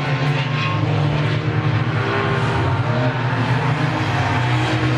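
Claimer-class race cars running together on the track, several engines at once in a steady, overlapping drone with small rises and falls in pitch.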